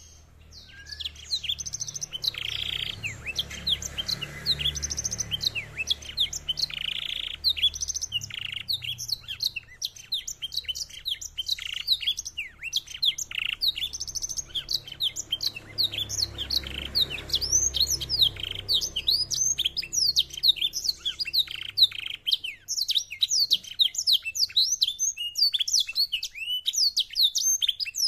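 Domestic canary singing a long, fast, continuous song of quick sweeping chirps, with short buzzy trills in the first few seconds. The song is a blackthroat-style song, learned from the black-throated canary, an African finch.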